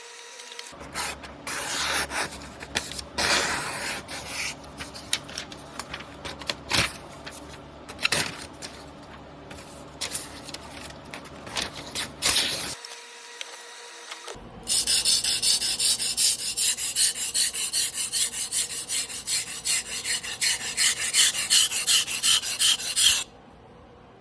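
Steel blade of a 300 mm Tojiro Damascus carbon-steel yanagiba being stroked by hand on a whetstone: irregular scraping strokes at first, then after a short break a louder, even run of strokes, about three a second, that stops suddenly near the end.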